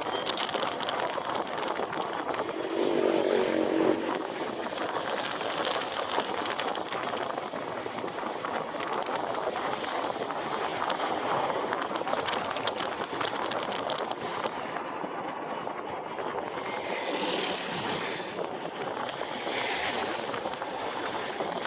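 Motorcycle running along a road during a ride, its engine under steady wind and road noise. About three seconds in, a louder steady pitched tone sounds for a second or so.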